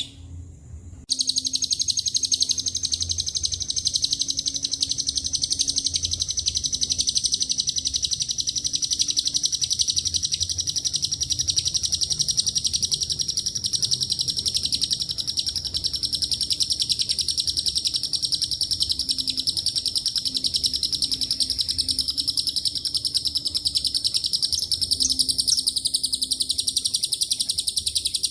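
Lovebird singing its long 'ngekek': one unbroken, rapid, high-pitched chattering trill that starts about a second in after a brief break and runs on without pause.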